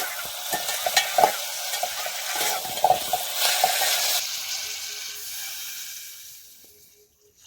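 Food sizzling and frying in a pan while being stirred, with scraping clicks and knocks against the pan. The sizzle fades away over the last few seconds.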